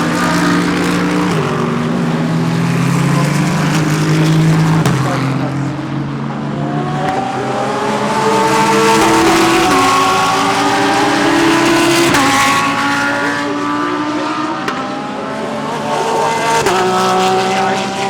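Several GT3 race cars driving through a corner, their engines overlapping. The engine notes hold steady and then step up or down in pitch as they shift gears.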